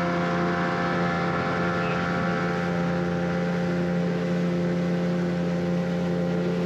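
Boat motor running steadily at constant speed, an even engine hum with no change in pitch.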